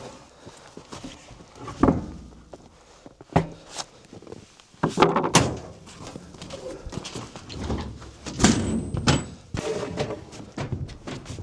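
Treated 4x4 lumber being handled, with several heavy wooden thuds and knocks spread through as pieces are moved and set down.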